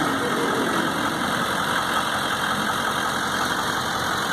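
A truck engine running steadily while hooked up to pull another vehicle.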